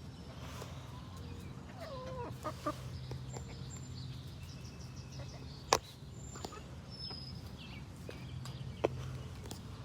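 Chickens clucking in short falling calls, with a few faint high chirps, two sharp knocks and a steady low hum underneath.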